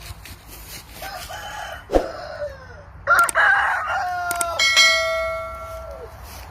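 Aseel game rooster crowing: one long, drawn-out crow that holds its pitch and drops at the end. Before it come a few shorter clucking calls and a single sharp click.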